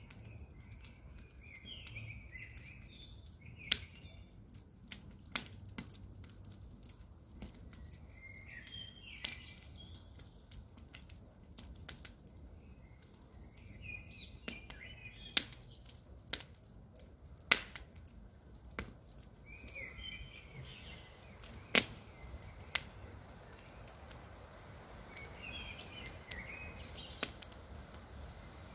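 Campfire crackling: irregular sharp pops and snaps over a low steady rumble of burning wood, with short bird chirps every few seconds.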